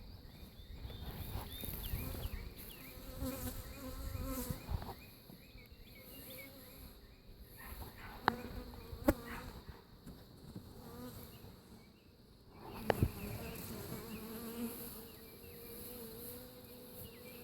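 Honeybees buzzing around an open top-bar hive, individual bees passing close with a rising and falling drone. A few sharp clicks sound about eight, nine and thirteen seconds in.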